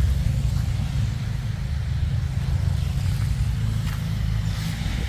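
A car engine running steadily, a low-pitched sound with little above it.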